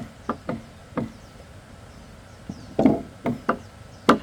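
A hand tool striking wood in about eight irregular chopping blows, spaced unevenly, with the heaviest blow near three seconds in.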